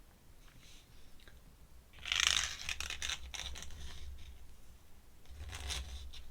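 Scratchy strokes of an ink drawing tool on paper, the loudest about two seconds in and another near the end.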